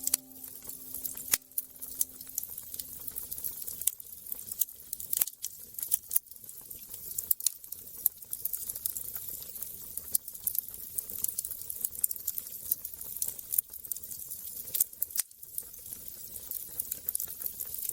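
Wood fire crackling, with frequent irregular sharp pops over a steady hiss.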